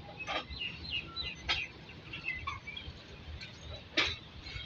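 Small birds chirping in short high calls, with a few sharp clicks. The loudest click comes near the end.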